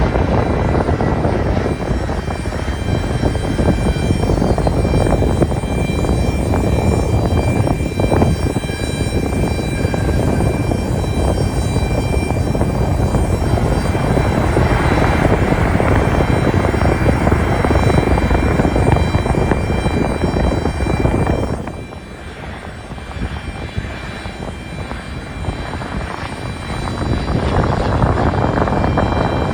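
Jet airliner engines running loud: a wide rumble with a steady high whine over it. The noise drops sharply about three-quarters of the way through and builds up again near the end.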